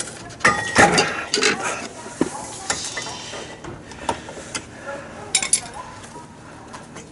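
Metal hand tools and parts clinking and clattering as they are handled and set down, in irregular sharp knocks with short metallic ringing.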